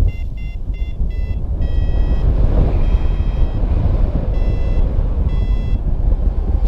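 Paragliding variometer beeping over heavy wind rumble on the microphone: a run of quick short beeps, then slower, longer beeps from about two seconds in. These are the tones a vario gives while the glider is climbing.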